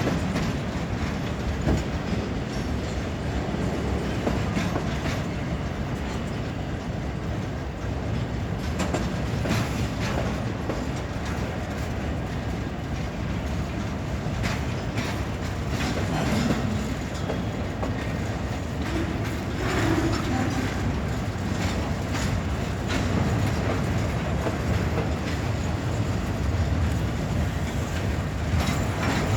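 Cars of a long Norfolk Southern freight train rolling past: a steady rumble of wheels on rail with frequent clacks over the rail joints.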